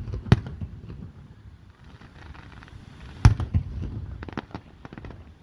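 Aerial firework shells bursting: a loud bang just after the start and another about three seconds in, the second followed by a quick run of crackling pops.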